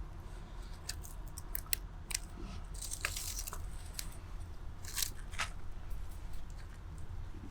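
Small wood fire in a twig stove crackling, with irregular sharp snaps and pops over a low steady rumble and a brief hissing flare about three seconds in.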